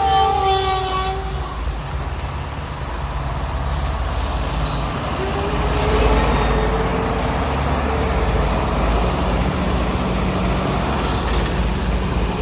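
Heavy haulage vehicle's diesel engine rumbling steadily. A multi-tone horn sounds at the start and stops about a second in.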